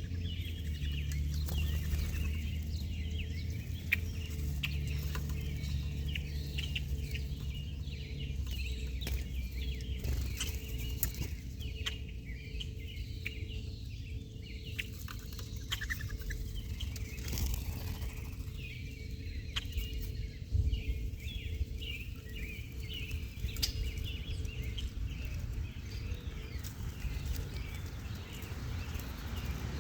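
Many small birds chirping and twittering without pause, with scattered short taps and clicks, over a steady low hum.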